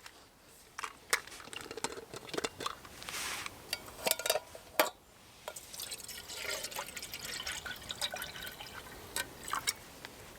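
Water being poured into a camping kettle, with scattered clinks and knocks of metal and gear around it.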